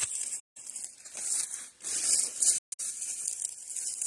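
Footsteps crunching and rustling through dry brush and leaf litter on a woodland walk, in irregular steps. The sound cuts out completely twice, once about half a second in and again near the end.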